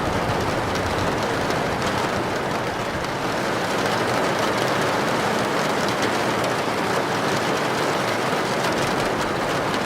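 Heavy rain falling steadily on a tin roof, an even hiss of drops on the metal.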